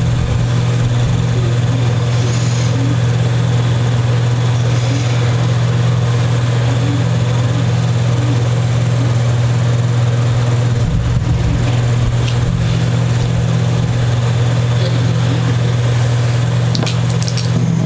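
Electric sander motor running steadily while a new guitar nut is sanded down to width, a constant low hum with a gritty hiss above it.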